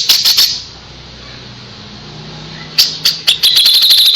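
Kapas tembak singing: a quick volley of sharp, high notes that stops about half a second in, then after a pause a few sharp notes and a fast run of repeated notes over a held high whistle near the end.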